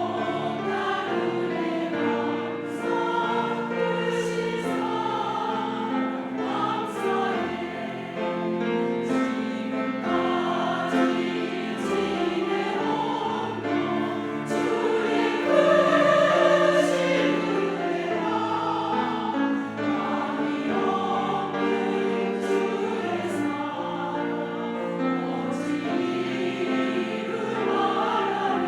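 Church choir singing a hymn anthem in Korean: sustained chords in several parts with crisp sung consonants, growing loudest a little past halfway through.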